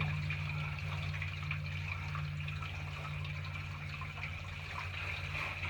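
Water from a running bathroom sink tap draining down through the drain pipe under the sink, a steady trickling wash, over a steady low hum.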